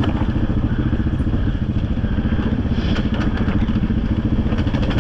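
Single-cylinder engine of a 2020 Honda Rubicon quad running at low, steady revs as it heads down a steep dirt hill. Some clatter joins in near the end.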